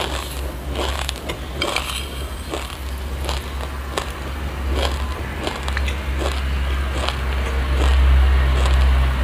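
Close-up crunching and chewing of a mouthful of crunchy black sesame seeds: a run of small, crisp crunches. A steady low rumble lies underneath and grows louder near the end.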